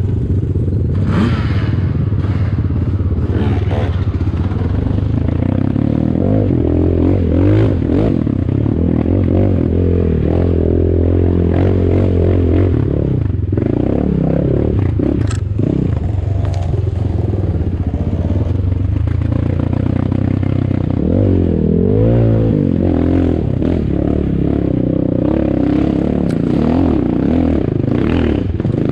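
Enduro dirt bike, the ATAKI DR 250, ridden over rough ground, its engine revving up and down again and again, with the clatter and scrape of the chassis and knocks from the terrain.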